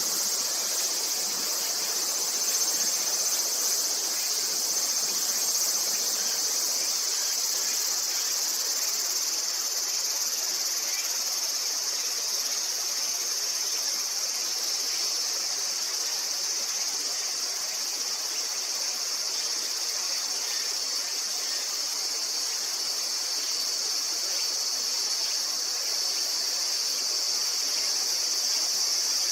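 Steady, unbroken chorus of insects in summer, a continuous high-pitched drone.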